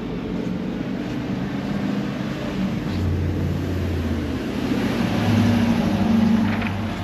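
Sightseeing trolley's engine running as it drives, with road noise. It grows louder about five seconds in, then eases off.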